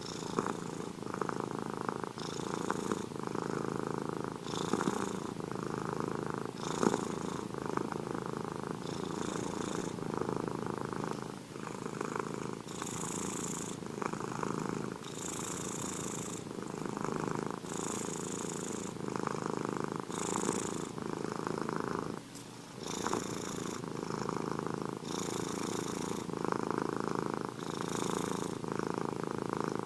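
Domestic cat purring continuously, the purr swelling and easing with each breath about every two seconds. There is a brief break about three-quarters of the way through.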